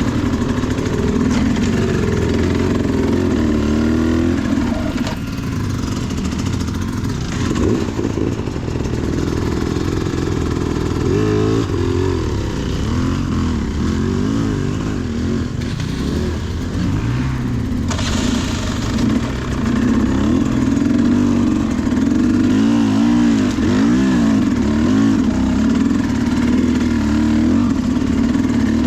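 Dirt bike engine revving up and down over and over, its pitch rising and falling as the throttle is worked on and off.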